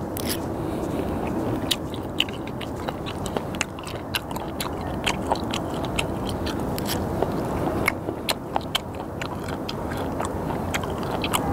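Close-up chewing of raw skate slices, with many short mouth clicks and smacks spread irregularly through the chewing.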